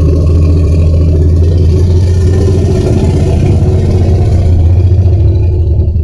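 Loud, continuous low rumble with a rapid flutter through it: a monster-movie sound effect.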